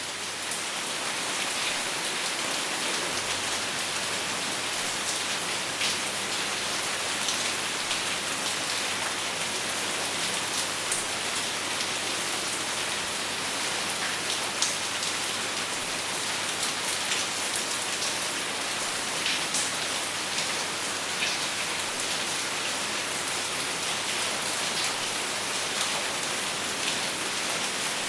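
Steady rain, an even hiss with many scattered drop taps and no thunder.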